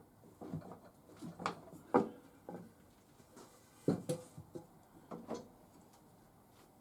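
Irregular knocks and clunks of the BSA B31's loosened front forks and alignment board being worked by hand to take out fork twist, with two louder knocks about two and four seconds in.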